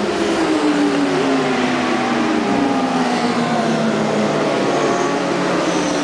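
Superbike motorcycle engines running at speed, several bikes' engine notes overlapping, with the pitch drifting slowly downward.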